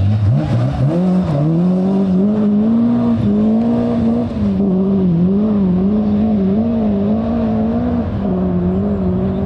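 Rally car engine picking up from low revs over the first second or so, then held high with quick small rises and dips in pitch.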